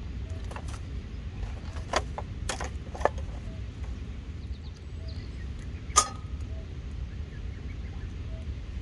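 A few sharp knocks and clinks from campfire cooking, the loudest about six seconds in with a short metallic ring, over a steady low rumble.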